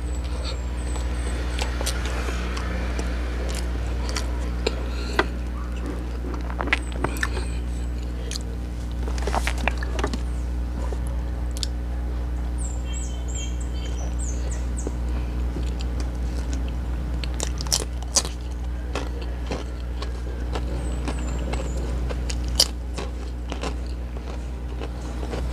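Close-miked chewing and biting of a soft burger bun: scattered wet mouth clicks and ticks, heard over a steady low hum.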